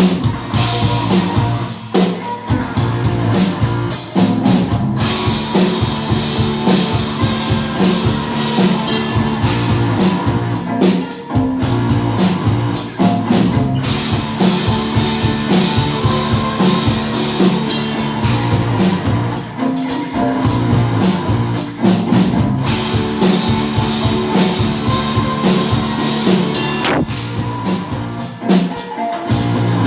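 A live rock band playing an instrumental passage after the sung refrain, with drum kit, electric guitars and bass and no singing.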